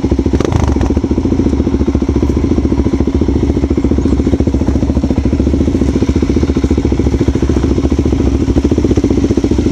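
Motorcycle engine running steadily, its firing heard as a fast, even pulsing, with a short knock about half a second in.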